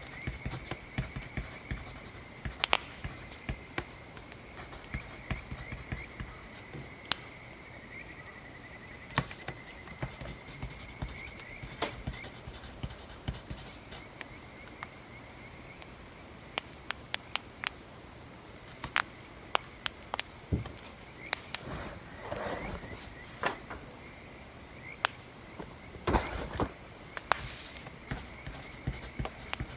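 Wood fire crackling with irregular sharp pops. A faint steady high tone runs through the first half, and a couple of brief scratchy rustles come about two-thirds of the way in.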